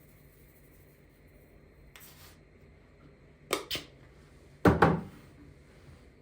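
A few short knocks and clatters of things being handled and set down: a faint one about two seconds in, a quick pair about a second and a half later, and a louder, heavier thump about a second after that.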